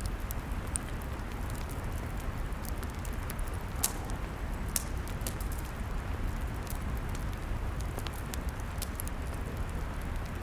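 Log fire crackling: irregular sharp pops and snaps over a steady low rumble, with one louder pop about four seconds in.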